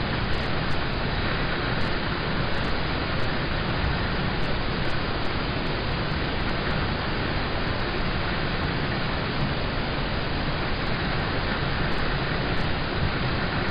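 Rain falling on a car's roof and windows, heard from inside the car: a steady, even hiss with faint scattered ticks.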